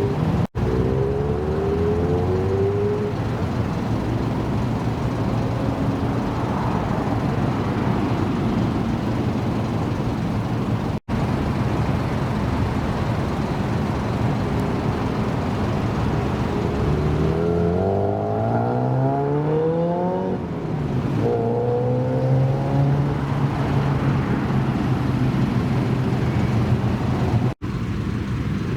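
Car engines running in a series of short clips that cut abruptly into one another. Past the middle, one engine revs up hard, its pitch climbing steeply, drops briefly and then climbs again as the car accelerates.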